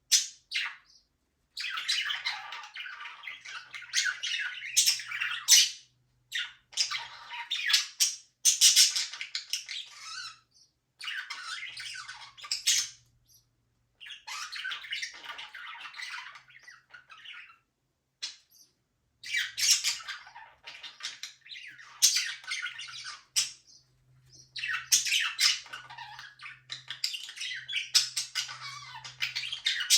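Budgerigars chirping and chattering together, in rapid high-pitched phrases a second or a few seconds long with short breaks between them.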